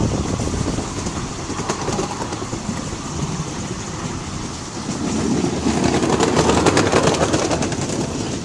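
Miniature railway train running along its track, a steady rumble of wheels on rails; from about five seconds in it grows louder with a rapid clatter.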